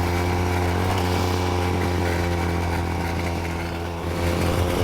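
Sparta moped-bicycle's built-in 30cc Sachs two-stroke engine running steadily under way, its pitch holding level, easing off slightly near the end before picking up again.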